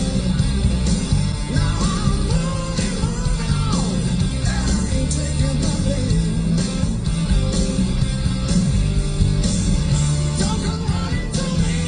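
Hard rock song with a male singer, electric guitars and drums playing from a car radio.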